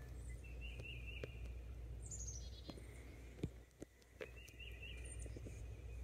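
Songbirds singing: a high, quick run of notes falling in pitch about two seconds in, and short warbling phrases near the start and again past the middle.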